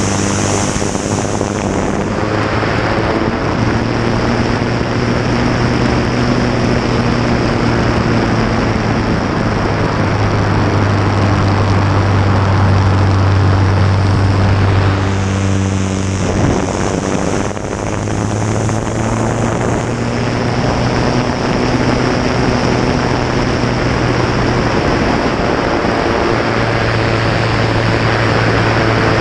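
A Fournier light aircraft's piston engine and propeller running continuously, heard close up from the cowling over a heavy rush of airflow on the microphone. The engine note changes and the level dips briefly a little past halfway, then the steady running resumes.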